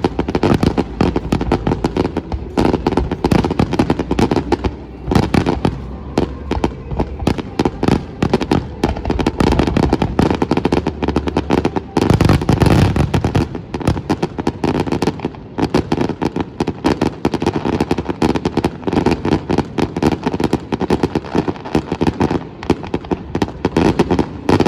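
Fireworks display: a dense, continuous run of bangs going off several times a second, with a heavier, louder cluster about halfway through.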